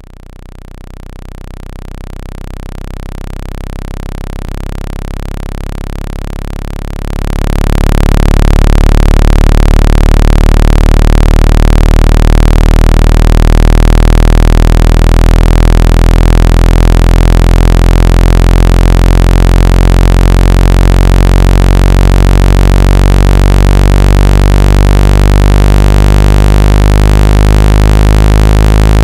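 Low-pitched electronic water-ejection tone for shaking water out of a phone speaker: a deep, steady buzz with many overtones and a hiss above it. It fades in over the first several seconds, then steps up to full loudness about seven seconds in and holds steady.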